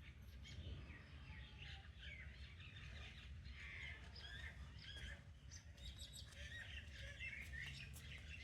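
Faint bird chirping: many short, high chirps and twitters, overlapping and spread all through, over a low steady rumble.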